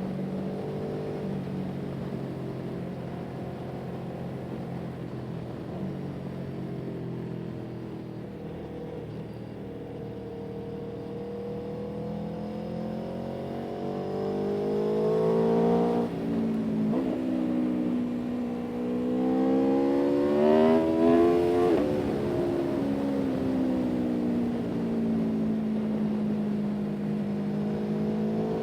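A vehicle engine running, its pitch climbing and falling several times as it speeds up and slows, with a sudden drop in pitch about halfway through.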